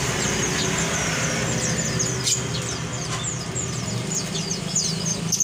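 Many small caged songbirds chirping, with quick short calls overlapping throughout, over a steady low hum.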